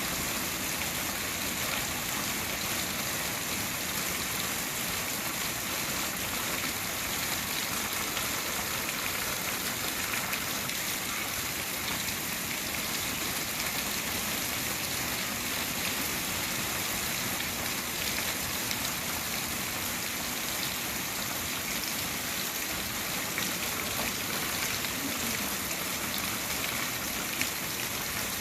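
Steady rain falling, a continuous even hiss with scattered drops ticking on a surface.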